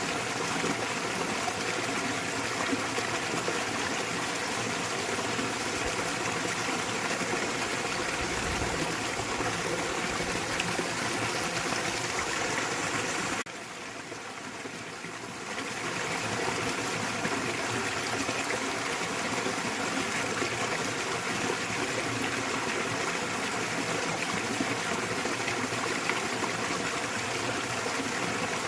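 Small waterfall pouring into a mountain stream: a steady rush and splash of water. About halfway through it suddenly drops quieter and duller for a couple of seconds, then comes back.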